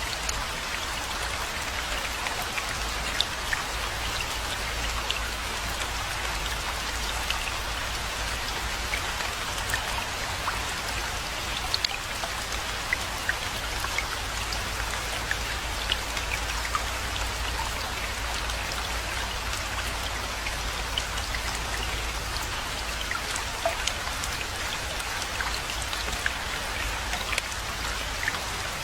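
Steady rainfall: an even hiss of rain with scattered sharper ticks of single drops.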